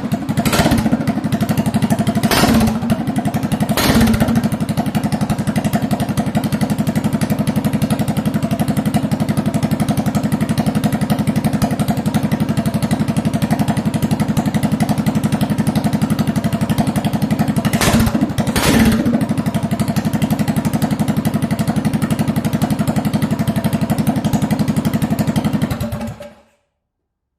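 Minibike's small engine idling steadily, with about five short loud bursts: twice near the start, once around four seconds in, and twice about two-thirds of the way through. The engine sound cuts off suddenly near the end.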